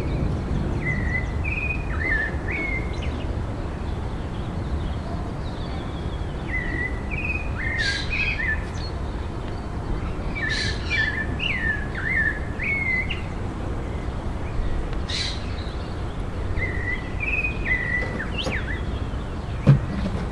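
A songbird singing short warbled phrases in four bursts a few seconds apart, over a steady low rumble of outdoor background noise. A single sharp knock comes near the end.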